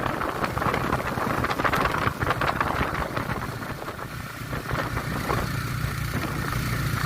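Motorcycle engine running, with wind rushing over the microphone; the wind noise eases about four seconds in, leaving the low engine sound.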